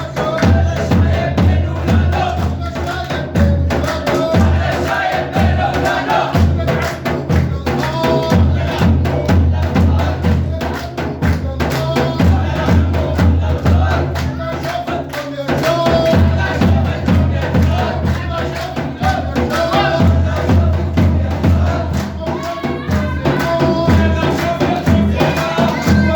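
Radda chanting: a lead singer's voice with a crowd joining in, over a steady, repeating drum beat.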